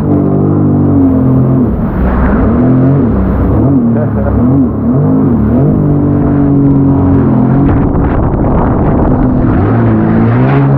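Motor engine running under load, its pitch rising and falling repeatedly for a few seconds, then steadier, then climbing again near the end.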